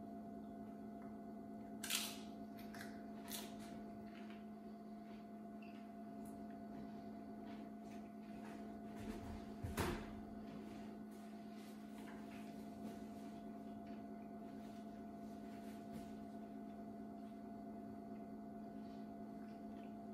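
Tortilla-chip nachos being bitten and chewed, crunchy: a sharp crunch about two seconds in and faint crunching clicks after it. There is a single louder knock about halfway through, over a steady low appliance hum.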